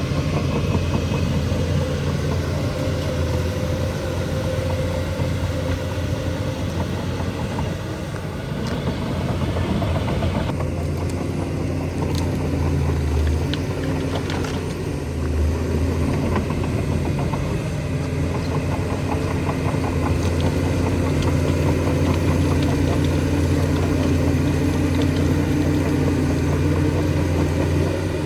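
Bulldozer's diesel engine running steadily, its note shifting briefly about halfway through, with a few faint clicks.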